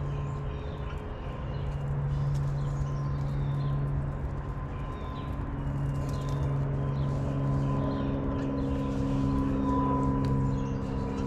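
Small wild birds chirping in short repeated notes over a loud, steady low hum.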